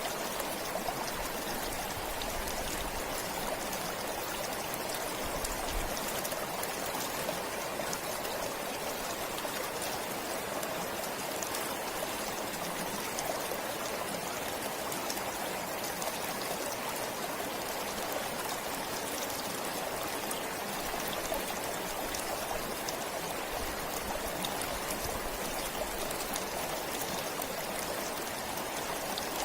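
Forest stream flowing steadily over rocks, an even rushing and trickling of water.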